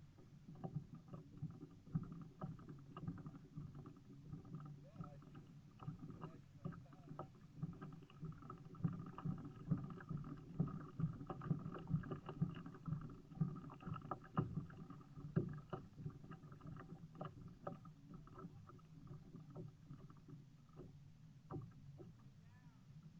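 Kayak out on the water: a low rumble of moving water with many irregular knocks and clicks, heavier through the middle stretch.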